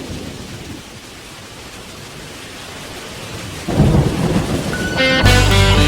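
Thunder rumbling over a hiss of steady rain, with a loud low thunderclap a little over halfway through. Music with guitar starts near the end.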